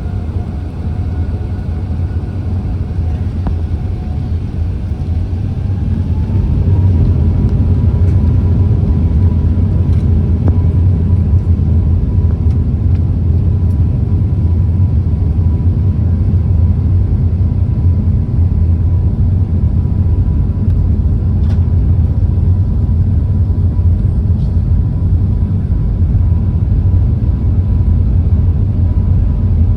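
Jet airliner engines with a heavy steady rumble and a thin whine. About six seconds in, the whine rises in pitch and the sound grows louder as the engines spool up, then both hold steady at high thrust.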